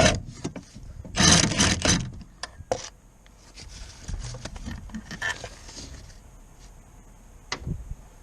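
Hand-tool work on car parts: short bouts of metal scraping and rubbing with a few knocks, the loudest bout about a second in.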